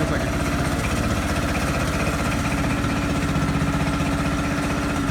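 Tractor engine running steadily at an even speed, with a constant pulsing note and no revving.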